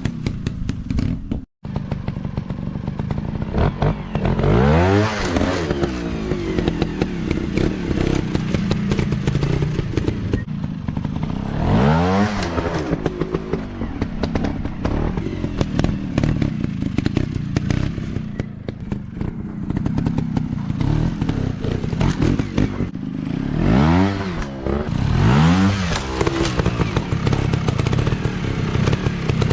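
Motocross dirt bike engine running on a rough trail, revving up and dropping back about four times, over a steady clatter of knocks and thumps.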